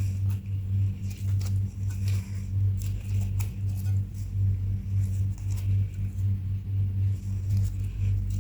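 Slime being squished and stretched by hand, with irregular sticky clicks and small pops, over a low hum that pulses about two to three times a second.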